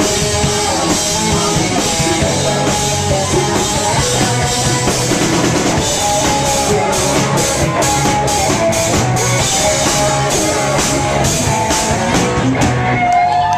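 A rock band playing: drum kit with regular cymbal and drum hits under sustained guitar and bass notes.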